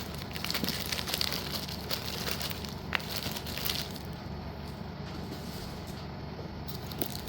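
Crackly rustling from packets of slate-pencil pieces being handled, with scattered small clicks and one sharper click about three seconds in.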